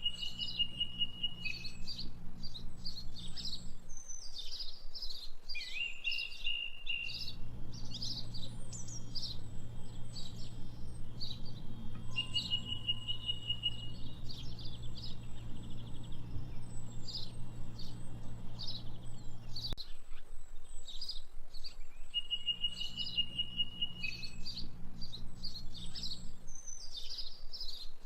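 Songbirds chirping and twittering, with a short repeated trill every few seconds, over a low steady hum that drops out twice.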